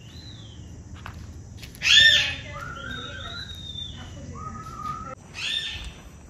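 Bird calls: a loud harsh call about two seconds in and again near the end, with clear whistled notes between them, some gliding up or down in pitch.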